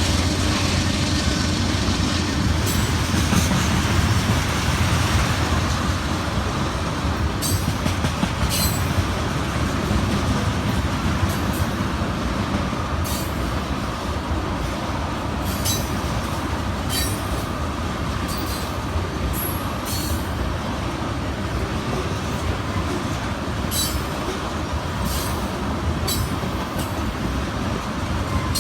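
Freight train rolling past: a steady rumble of wheels on rail with irregular sharp clicks. A low diesel locomotive hum fades out in the first few seconds as the cars follow.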